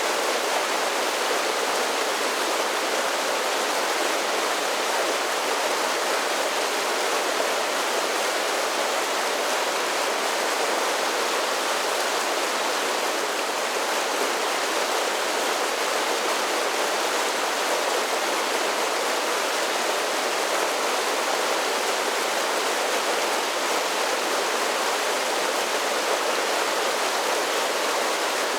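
Mountain creek tumbling over a series of small waterfalls: a steady, even rush of water.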